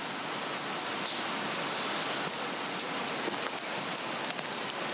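Swedish torch log fire burning: scattered sharp crackles and pops over a steady rushing hiss.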